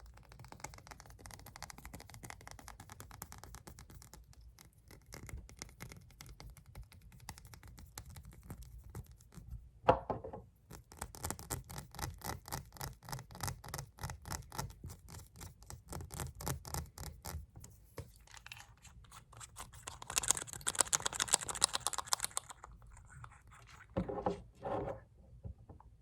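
Fast tapping and scratching on glass nail polish bottles. There is one loud knock about ten seconds in, and a stretch of harsher scratching a little after twenty seconds.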